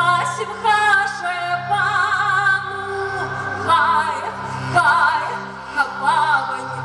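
Music: a woman singing with wide vibrato over a steady accompaniment with a bass that pulses about twice a second.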